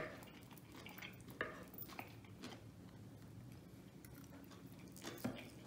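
Faint chewing and eating sounds, with a few short clicks of forks picking food off a wooden platter.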